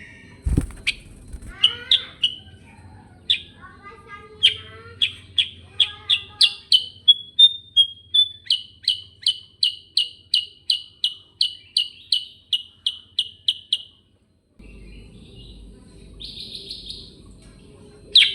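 Kutilang sutra songbird singing its rolling 'ngerol' song: a long run of sharp, high chirps that quickens into an even series of about three notes a second, then stops abruptly. A low thump sounds once about half a second in.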